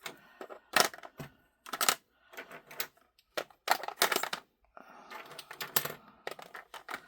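Small hard plastic pieces, diamond-painting drill bottles and storage containers, clicking and clattering as they are handled and put away. Sharp single clicks come about a second apart, with a busier rattle around the middle.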